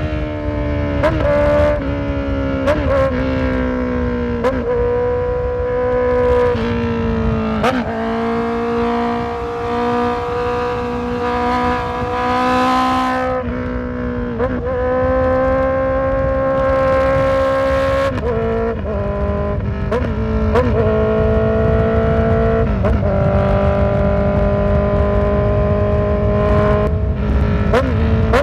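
Honda CB650F's inline-four engine running on a ride, its pitch slowly rising and falling with the throttle, with several short sharp blips and a brief drop about halfway through.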